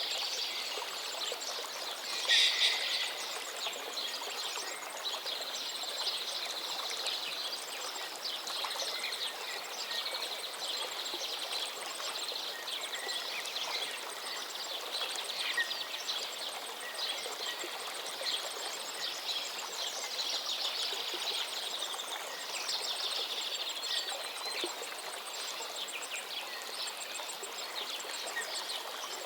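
Many songbirds chirping and trilling over the steady rush of a flowing stream, with one louder burst of song about two and a half seconds in.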